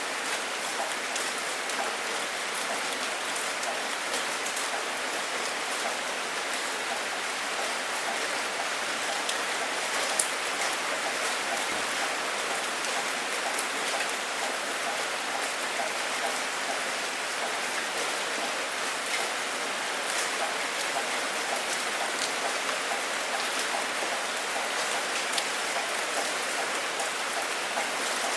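Steady rain falling: an even hiss with scattered sharper taps of single drops, one standing out about ten seconds in.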